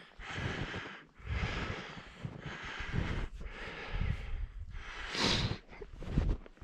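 A person breathing hard while walking, with footsteps, in regular swells about once a second; a sharper, louder exhale about five seconds in.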